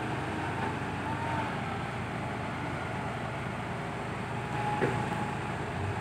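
Heavy diesel machinery running steadily: dump truck and excavator engines, with a short knock near the end.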